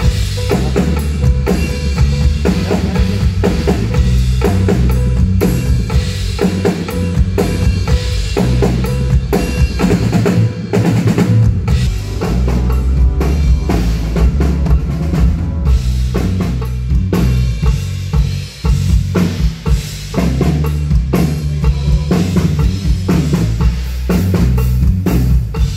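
Drum kit played through a stage PA during a band's sound check, with kick drum and snare hits coming thick and fast. A short drop in loudness comes about 18 to 19 seconds in.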